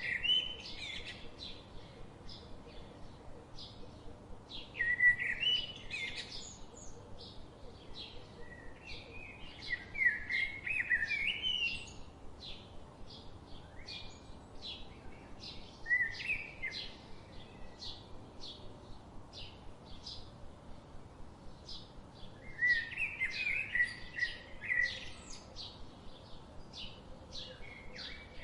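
Birds chirping: a steady run of short, high chirps, about two a second, with louder warbling song phrases breaking in every few seconds.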